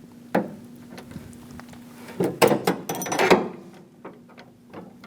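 A metal pick prying at the plastic lock tab of a door-handle rod clip. There is a sharp click about half a second in, then a run of clicks and scraping between about two and three and a half seconds in, over a faint steady low hum.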